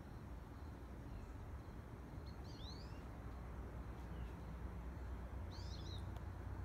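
A bird chirping in two short runs of quick, high notes, about two and a half seconds in and again near the end, over a faint steady low outdoor rumble.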